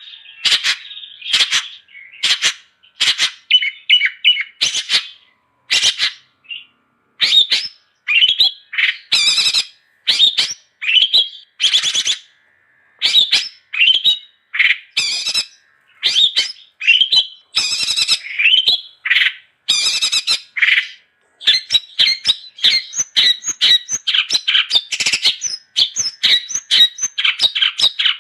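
Long-tailed shrike (cendet) singing continuously: a string of short, sharp notes and chatter with a couple of brief pauses, quickening into a fast, dense run of notes in the last third.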